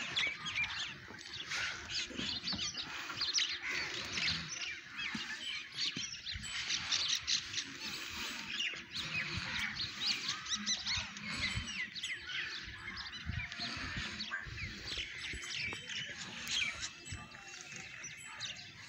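Many small birds chirping and twittering together, a dense, continuous chatter of short high calls.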